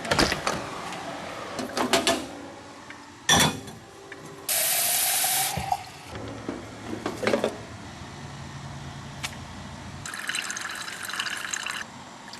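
Water running from a tap and filling a container, among knocks and clatter. The loudest part is a short steady rush of water about four and a half seconds in, and a low hum follows.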